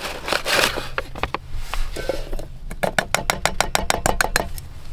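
A utensil stirring batter in a container, clicking quickly and evenly against its side, about eight clicks a second for nearly two seconds, after a few short rustles.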